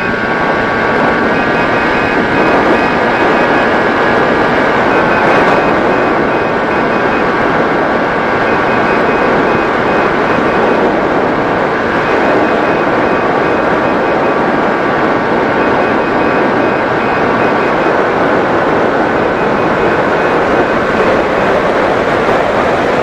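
Electric motor and propeller of a Mini Drak RC flying wing running steadily in flight, a whine over rushing air noise, the whine shifting slightly in pitch a few times with throttle changes.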